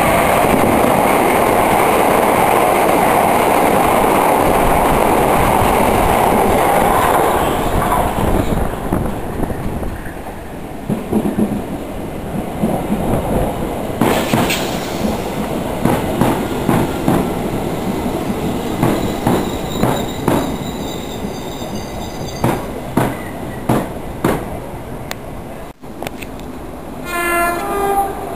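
A First Capital Connect electric multiple unit runs through the station at speed without stopping, a loud rushing for about eight seconds. After that a Southern electric train moves past close by, its wheels clacking over rail joints at irregular intervals. Near the end there is a short rising tone.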